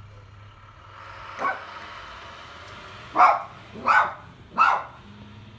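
A dog barking: one softer bark, then three loud, sharp barks about three-quarters of a second apart, over a steady low hum.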